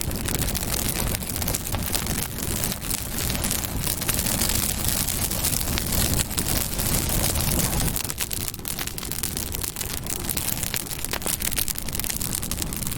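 Campfire burning: a steady hiss of flame with frequent sharp crackles and pops of burning wood.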